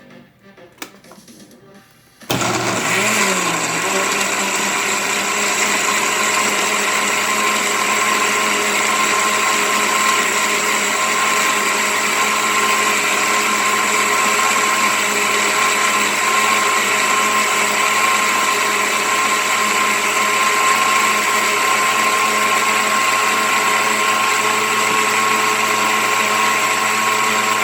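A few light clicks, then an electric blender motor starts about two seconds in. Its pitch rises briefly as it spins up, then it runs steadily, puréeing pineapple, cucumber, ginger and water.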